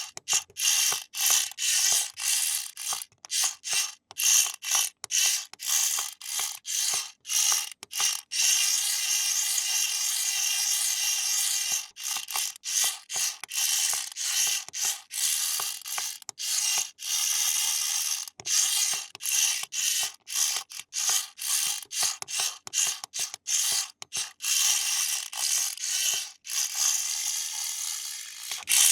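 Small toy mechanism making a ratchety, grinding mechanical noise in quick stops and starts, with a steadier unbroken stretch about nine seconds in.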